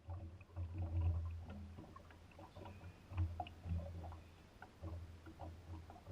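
Small aluminium jon boat on the water: irregular low rumbles with scattered knocks and clicks.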